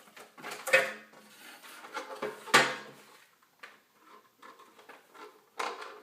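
Parts of a Bounty Hunter Gold Digger metal detector being handled and fitted together: a string of clacks and knocks, the two loudest a little under a second in and about two and a half seconds in, with more clatter near the end.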